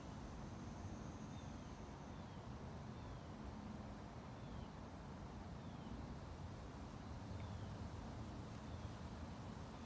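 Faint outdoor ambience: a bird repeats a short falling chirp about once a second over a low steady rumble, with a thin high whine that stops about two seconds in. The alligators themselves make no audible sound.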